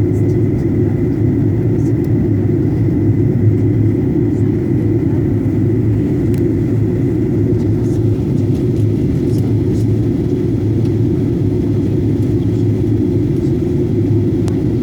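Airliner cabin noise heard from inside the passenger cabin in flight: a steady, deep rumble of engines and airflow with no change in level.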